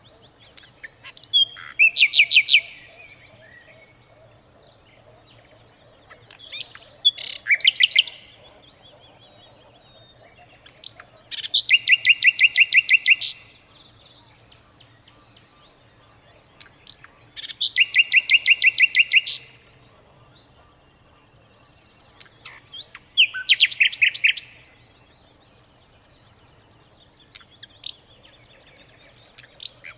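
A songbird singing a short, fast trill of evenly repeated notes, about five bouts each one to two seconds long, coming every five to six seconds.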